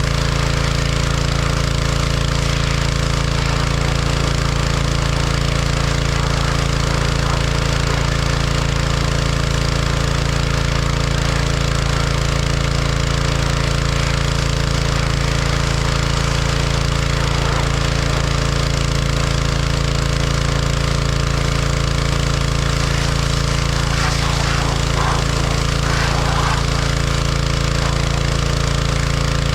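John Deere 1025R tractor's three-cylinder diesel engine running steadily at working speed while operating the 260B backhoe, with a few faint knocks near the end.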